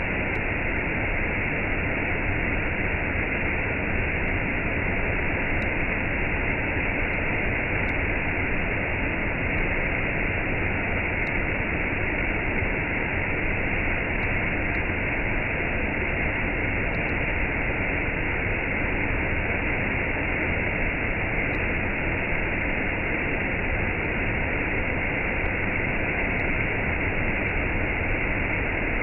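Waterfall with a cascade: water rushing steadily, with no change in level.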